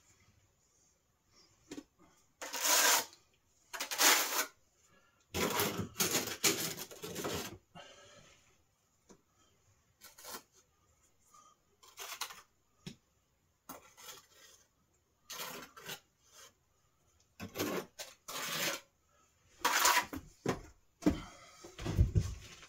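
Handling and work noises: irregular bursts of rubbing, scraping and light clattering, each lasting under a second, with a heavier low thud near the end.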